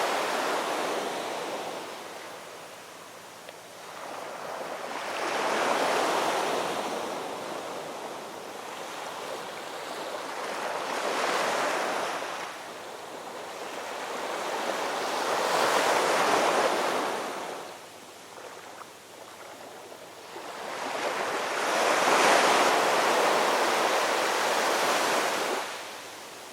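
Ocean waves breaking and washing up the shore. A wave's wash fades out early on, then four more surges follow, each swelling and falling back over a few seconds, about five seconds apart.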